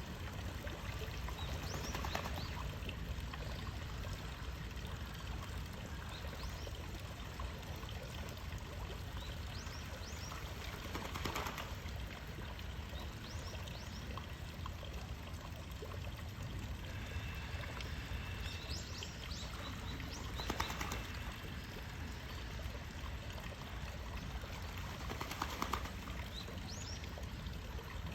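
A small bird giving short, sharp, high chirps in scattered bouts, over a steady rushing background noise.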